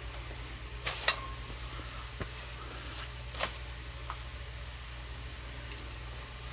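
A steady low hum with a few sharp clicks and knocks of handling in a workshop, the loudest pair about a second in and another at about three and a half seconds.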